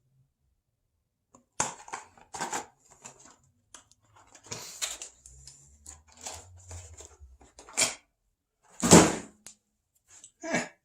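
Car parts and their packaging being rummaged through in a cardboard shipping box: scattered clicks, knocks and rustling of paper and plastic, with one louder clatter near the end.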